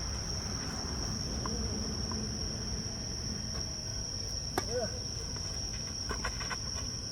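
Insects trilling steadily in one continuous high tone, with a single sharp knock about four and a half seconds in and a few faint clicks near the end.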